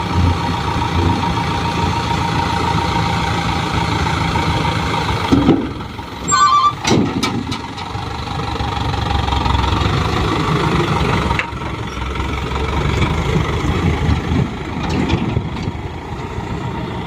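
Diesel engine of a small dump truck running, with a short quick run of electronic beeps about six seconds in.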